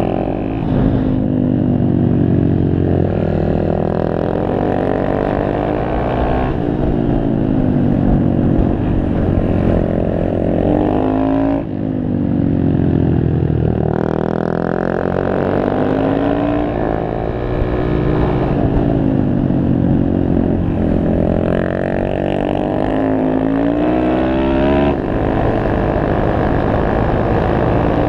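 Honda Grom's 125 cc single-cylinder four-stroke engine heard from onboard while riding, its pitch climbing as it revs up and falling back for shifts and corners, over and over, with wind rumble on the microphone.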